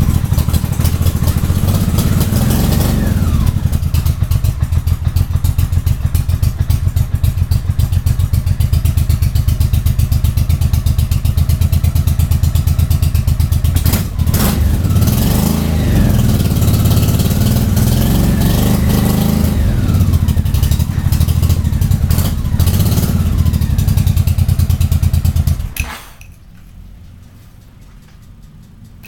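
Motorcycle engine running after a cold start, revved in rising-and-falling sweeps a few times, then shut off about 26 seconds in.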